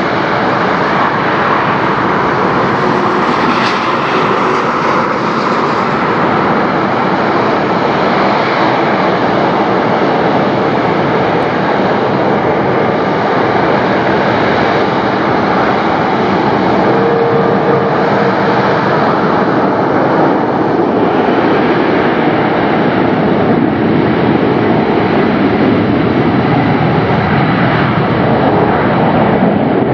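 Jet airliner engines running at high power during a takeoff, a loud steady noise that barely changes.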